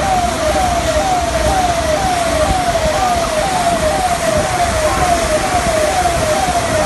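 Steady hiss of rain, with an electronic siren repeating a short falling tone about one and a half times a second.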